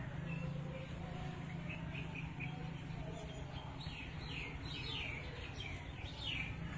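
Birds chirping: a quick series of short, falling chirps, over a steady low hum.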